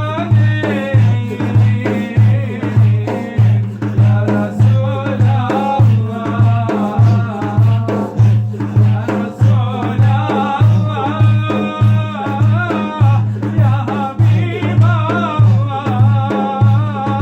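Turkish Sufi hymn (ilahi) music: a steady low drum beat about twice a second under a wavering, ornamented melody line.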